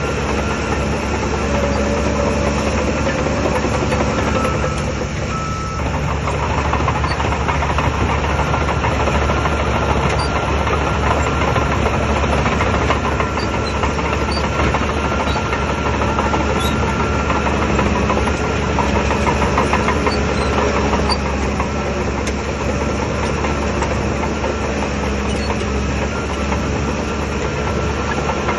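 Heavy diesel engine of a Shantui DH17 crawler bulldozer running steadily under load.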